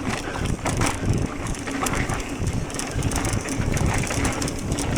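Mountain bike riding fast over a dirt trail: tyre rumble and irregular rattling and clacking from the bike over rough ground, with wind buffeting the microphone.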